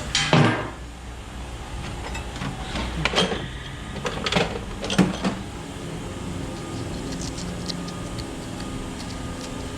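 Ratchet and socket working 10 mm bolts off an LS engine, with several sharp metal clanks and quicker small clicks of the tool.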